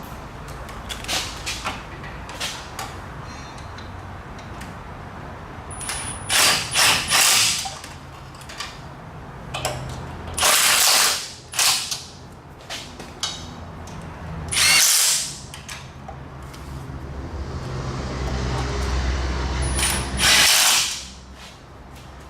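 Mechanic's tool work on exhaust manifold bolts: ratcheting clicks and several short, loud bursts from a power tool, with a low hum building just before the last burst.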